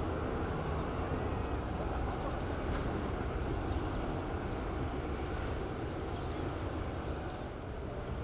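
Steady, even rumble of airliner jet engines running, with no rise or fall in pitch.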